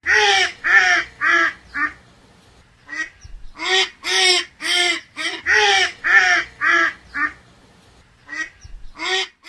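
Duck quacking in runs of short quacks, about two a second: four at the start, then a pause of about a second, then a longer run, and two more near the end.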